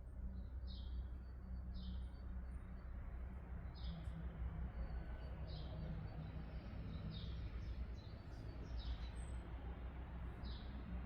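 A bird chirping, one short high chirp every second or two, over a low steady hum.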